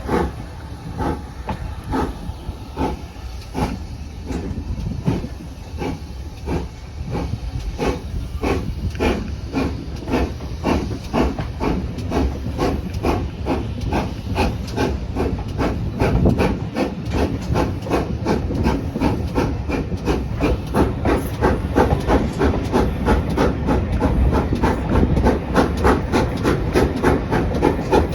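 Steam locomotive exhaust beats chuffing as it gets under way: about one beat a second at first, quickening steadily to around three a second and growing louder, with hiss of steam between the beats.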